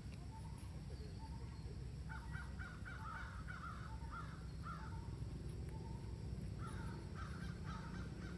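Birds calling: two runs of short, quick harsh calls, the first about two seconds in and the second near the end, over a steady low rumble.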